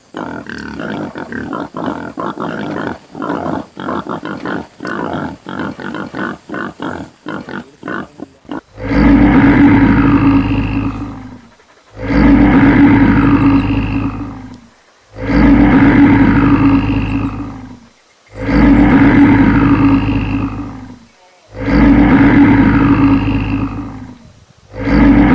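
An animal making rapid, choppy short grunts, then a loud, deep roar repeated six times, each about two and a half seconds long, with short gaps between them.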